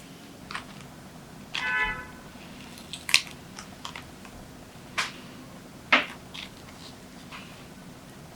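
Kitchen handling sounds: scattered sharp clicks and knocks of utensils and containers being set down and moved, with a short high squeak about a second and a half in.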